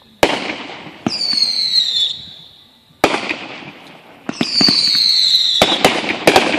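Fireworks going off: a string of sharp bangs at uneven intervals, bunched close together near the end. Twice a bang is followed by a high whistle lasting about a second that falls slightly in pitch.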